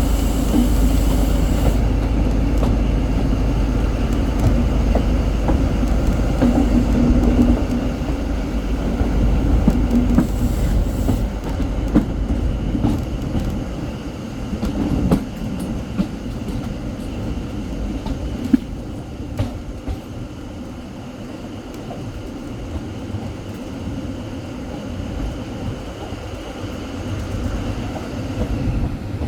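A train ride heard from on board, hauled by a Class 43 HST diesel power car: a steady rumble of the diesel engine and wheels on the rails, with a few sharp clicks. It is louder for the first half and eases off about halfway through.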